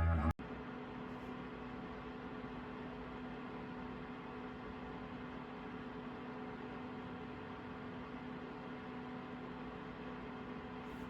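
Dehumidifier running: a steady hum with a low, even tone and no change in pitch.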